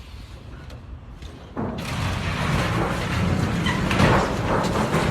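Low road-vehicle rumble, then a loud, rough noise starts suddenly about one and a half seconds in and keeps going.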